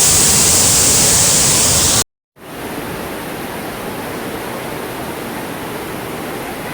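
Steady rushing of floodwater. It breaks off for a moment about two seconds in and comes back quieter and less hissy.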